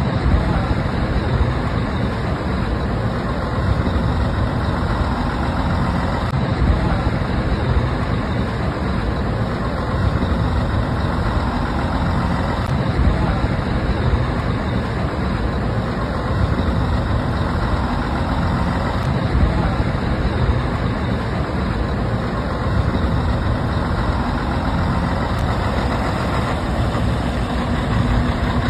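Bus engine idling steadily, a continuous low rumble.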